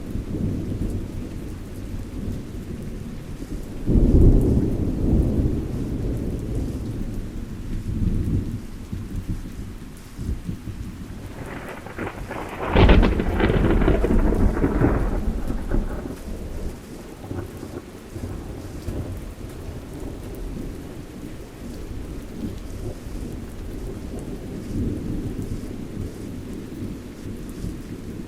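Thunderstorm with steady rain and rumbling thunder, with two louder rolls of thunder, the second and sharpest about 13 seconds in, fading over a few seconds.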